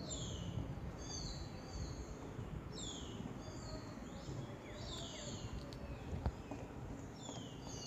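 Forest birds calling: short series of high, falling whistled notes, repeated every second or two, over a steady low rumble. A single sharp click sounds about six seconds in.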